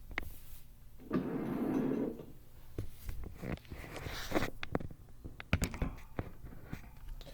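Handling noise as a camera is moved and set up: a scrape about a second in, then scattered knocks and clicks.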